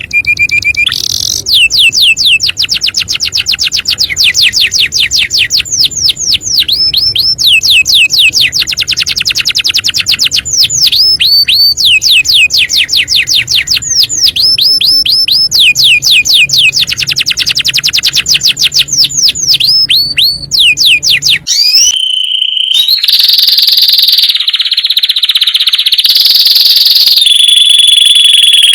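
Domestic canary singing: rapid trills of repeated falling high notes, delivered in phrases of a few seconds each. About three-quarters of the way through, the recording cuts to a steadier, held high trill.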